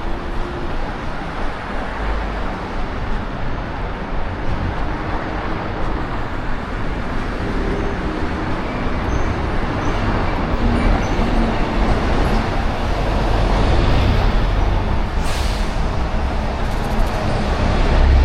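Steady city road-traffic noise with a low rumble, swelling toward the end as vehicles pass close by.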